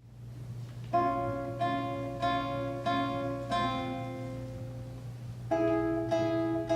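Solo classical guitar playing a slow run of plucked chords, one about every two-thirds of a second, left to ring, with a new chord starting about five and a half seconds in. A steady low hum lies underneath.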